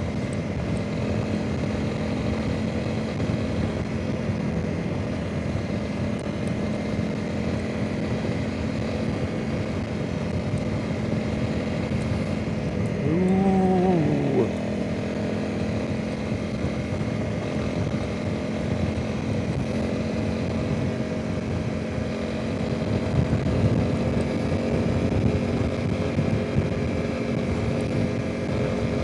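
Honda CRF300 Rally's single-cylinder engine running at a steady cruising speed, with wind noise on the microphone. About halfway through, a brief sound rises and falls in pitch.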